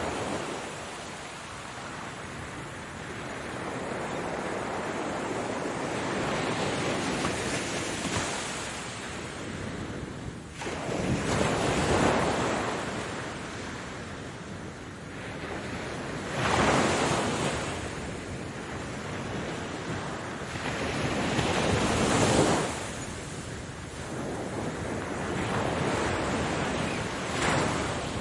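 Sea waves breaking and washing in, a steady rush with several swells surging louder a few seconds apart.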